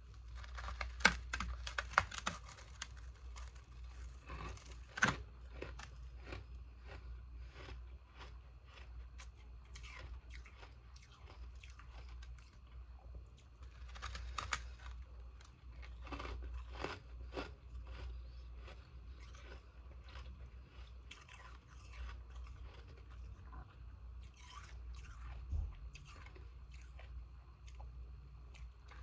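Pieces of freezer ice being bitten and chewed close to the microphone: irregular sharp crunches throughout, the loudest about a second, two seconds and five seconds in.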